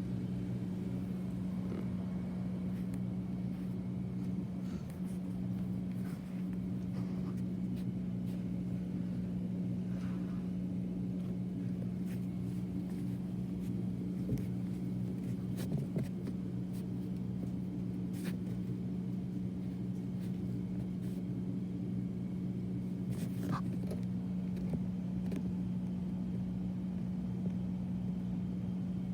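Water heater running with a steady low hum, with a few faint ticks scattered through it.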